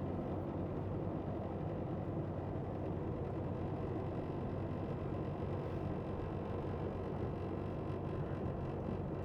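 Semi truck's diesel engine and road noise heard inside the cab as a steady, even drone while driving slowly.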